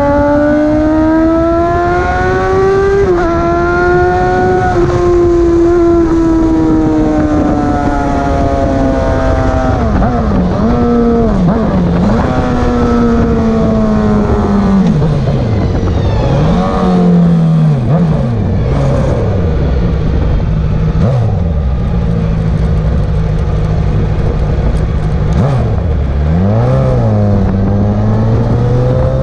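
Motorcycle engine at racing speed on a circuit. Its revs climb under acceleration, then drop in quick dips and blips several times, as on downshifts braking into corners.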